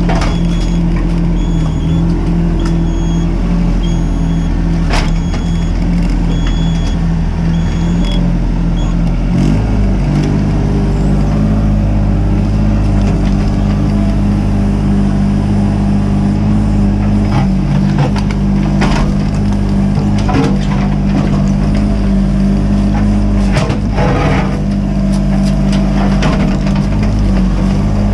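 Mini excavator's diesel engine running steadily under working load, its note shifting about nine seconds in. A series of short high beeps sounds during the first eight seconds, and scattered knocks and scrapes follow later.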